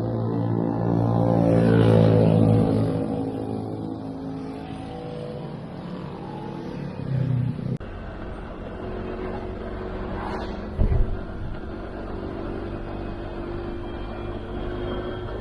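Motor vehicle engine running on the road, with the engine note loudest and falling about two seconds in, as when a vehicle passes close. A sharp thump comes just before eleven seconds, and the engine note rises slowly after that.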